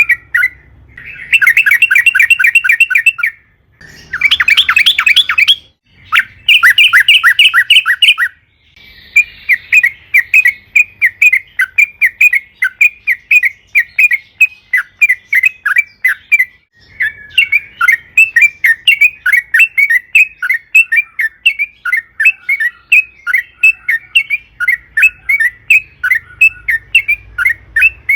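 Yellow-vented bulbul (trucukan) singing a long, rapid chattering song. It comes as three loud dense trills in the first several seconds, then as a long unbroken run of quick bubbling notes.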